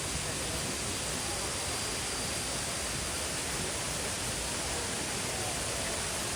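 Steady rushing noise with no breaks, even from low to high, like falling water. A faint steady high whine sits over it for the first half.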